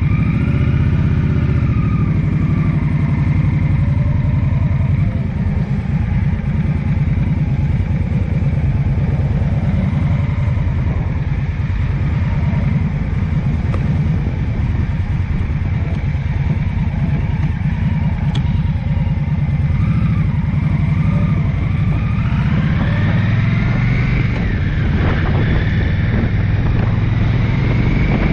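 A vehicle engine running steadily under way, with wind noise. Over the last several seconds the engine's pitch rises and falls as the speed changes.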